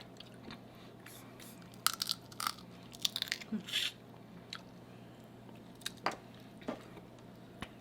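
Crab leg shells cracking and being picked apart, with chewing, in a scattered series of short crunches and clicks, most of them in the first half.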